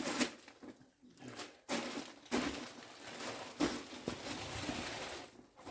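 Handling noise from a homemade boat dolly and boat being fitted together: a few sharp knocks amid rustling and scraping.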